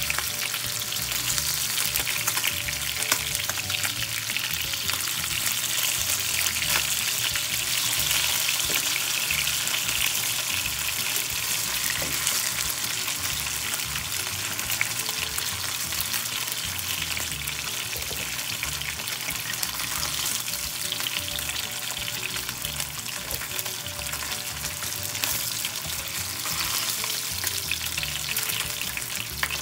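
Salmon fillets sizzling and crackling steadily in hot oil in a nonstick frying pan, with occasional small clicks and scrapes of a plastic slotted spatula as the fillets are turned.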